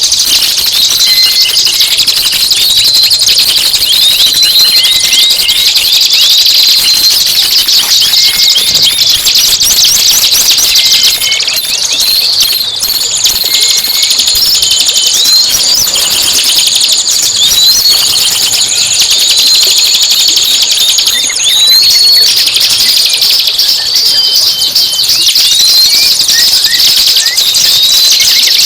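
Songbird singing without a break: rapid high-pitched chirps and trills, with short upward-sweeping whistled notes repeated about every second or two.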